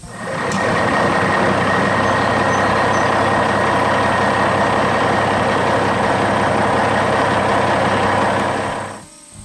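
Heavy machinery engine running steadily under load, with a steady high whine above it; it fades in about half a second in and fades out near the end.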